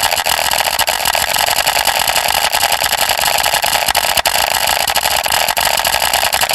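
A motor-driven machine running steadily with a fast, rough rattle, starting and cutting off abruptly as a stock sound effect.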